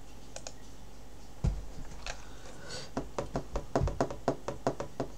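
Typing on a computer keyboard: a single dull thump about a second and a half in, then a quick run of keystrokes, about four a second, through the second half.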